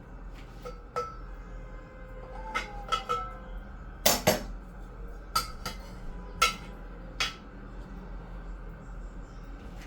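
Spoon and dishes clinking while food is served from the pot: a scattered series of sharp metallic clinks with short ringing tones, the loudest about four seconds in.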